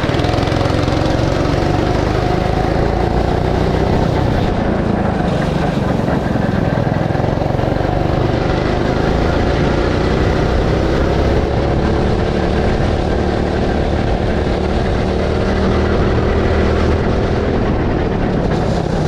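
Go-kart engine heard onboard, revving up and down through a lap, its pitch rising on the straights and dropping into the corners, over a steady low rumble.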